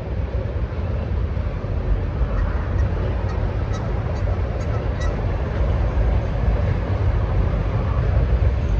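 EMD SD40-2 diesel locomotive's 16-cylinder turbocharged engine running hard under load: a steady deep rumble that grows slightly louder toward the end.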